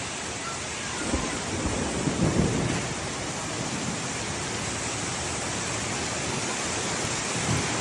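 Heavy rain pouring steadily in a thunderstorm, with a low rumble swelling about one to three seconds in.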